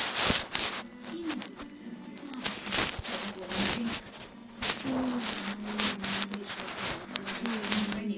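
Cat clawing and scratching at a surface: a run of irregular rasping scratch strokes, several a second with brief pauses, over faint background TV sound.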